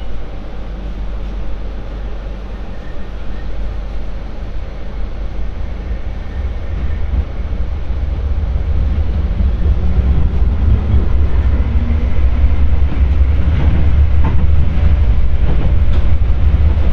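MTR Light Rail Phase IV train (cars 1128+1125) running, a low rumble that grows steadily louder from about halfway through.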